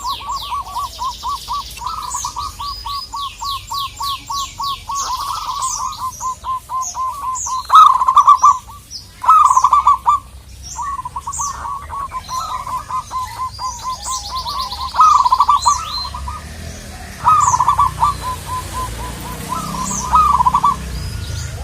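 Zebra dove (perkutut) cooing: long trains of quick, short coo notes at a steady pitch, broken several times by louder rolling phrases. Other small birds chirp and trill high above it, with a fast run of sweeping trills at the start.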